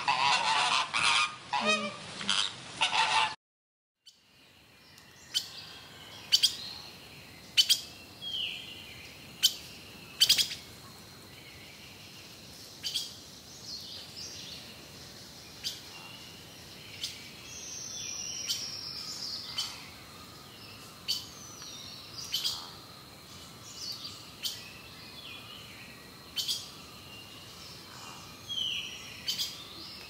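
Loud honking calls of a scarlet ibis for about three seconds, cut off abruptly. Then a redstart's short chirps and whistles, one falling in pitch, mixed with sharp ticks every second or two over a faint outdoor hiss.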